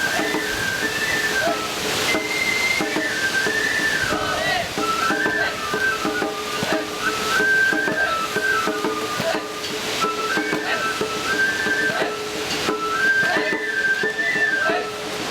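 Japanese transverse bamboo flute (shinobue) playing a repeating festival melody in short held notes, with lower sustained tones and drum strokes beneath: lion-dance festival music (shishimai hayashi).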